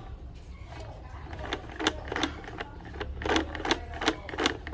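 Irregular plastic clicks and knocks from a toy tanker truck being pulled apart by hand, about two a second.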